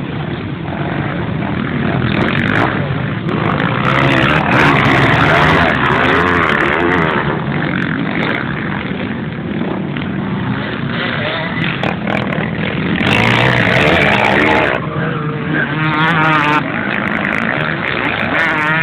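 Several motocross motorcycle engines running hard on the track, their pitch rising and falling with throttle and gear changes as bikes pass and overlap.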